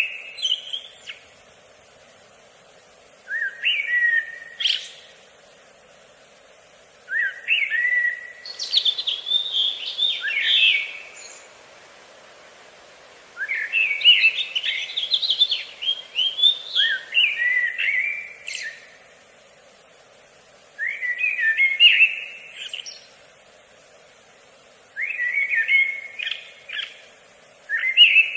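A songbird singing in repeated phrases of quick, warbled, rising notes, each phrase a second or a few seconds long with pauses of about two seconds between, over a faint steady background hum.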